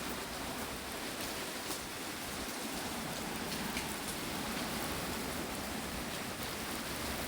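Steady hurricane rain: an even hiss with a few scattered sharp drop ticks.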